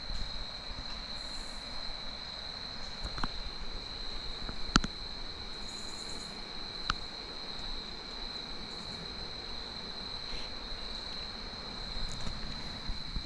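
Insects singing in one steady, unbroken high-pitched drone. A few sharp clicks come over it, the loudest a little under five seconds in.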